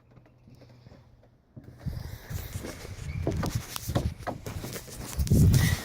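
Irregular clicks, knocks and rustling of handling noise, starting a second and a half in, with a heavier thump near the end. No engine is running.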